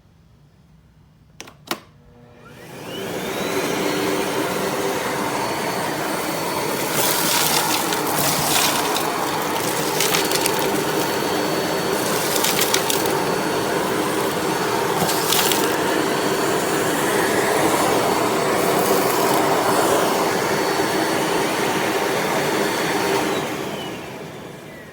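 Miele Blizzard CX1 bagless canister vacuum switched on with a click, its motor whining up to speed, then running steadily with a loud rush of suction air and a few brief louder gusts. Near the end it is switched off and the whine falls away as the motor spins down.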